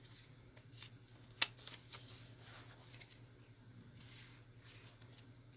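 Paper being handled: pages and paper scraps rustling and sliding against each other, with one sharp click or tap about a second and a half in, over a faint steady hum.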